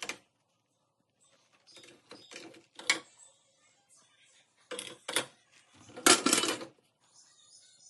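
Clattering and rattling of small hard objects being handled, in several short bursts, the loudest about six seconds in.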